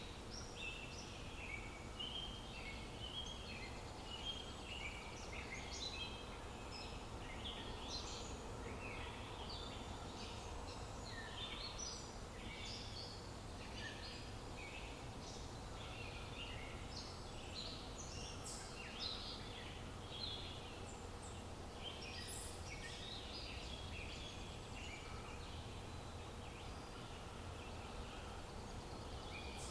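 Many songbirds chirping and singing in a dense, continuous chorus of short high calls, over a steady low background rumble.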